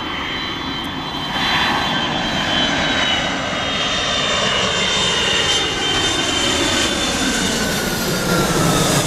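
Jet airliner's engines passing low overhead on final approach, growing louder about a second in, with a high whine that slides steadily down in pitch as the plane goes by.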